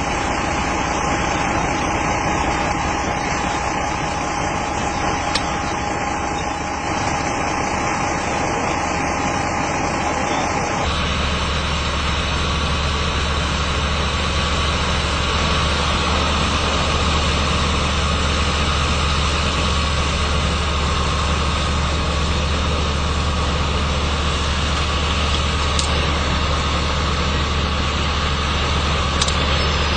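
Vehicle engines idling steadily, a continuous low hum. The sound changes abruptly about eleven seconds in, to a heavier, deeper hum.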